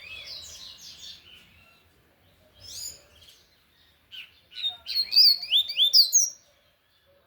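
Double-collared seedeater (coleiro) singing in the tui-tui song style. A phrase fades out in the first two seconds and a brief burst comes near three seconds. From about four to six seconds in comes a loud, fast phrase of rising and falling whistled notes.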